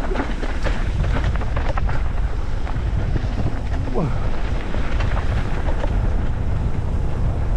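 Wind buffeting the microphone over a steady rumble from a mountain bike riding a rough trail, with scattered clicks and knocks from the bike rattling. About four seconds in a brief falling voice-like sound cuts through.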